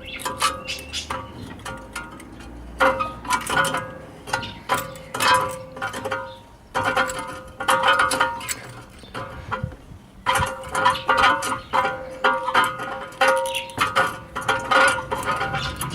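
Metal brake parts being scrubbed by hand: runs of quick scraping strokes with a ringing metallic tone, broken by short pauses.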